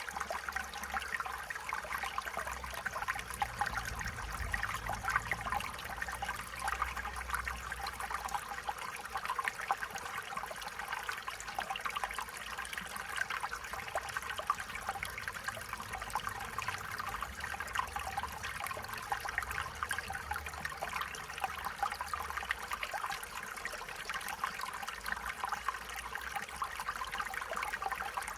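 Stream water running and trickling over stones, a steady bubbling babble.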